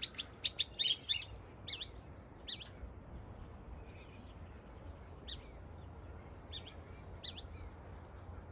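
Bird calls: a quick run of short, high, sweeping whistled chirps in the first second, then single chirps every second or so, over a steady low background hum.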